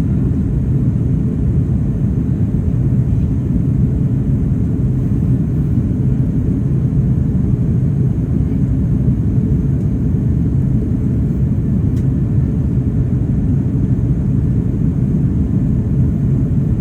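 Steady low rumble of airliner cabin noise during descent, the engines and rushing airflow heard from inside the cabin.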